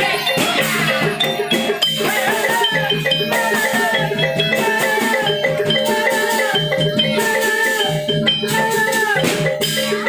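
Javanese gamelan music: bronze metallophones and drums playing a steady, repeating rhythmic pattern.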